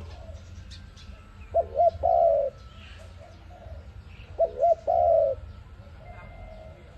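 A dove cooing: two quick notes then a longer coo, given twice about three seconds apart. Faint chirps of small birds sound behind it.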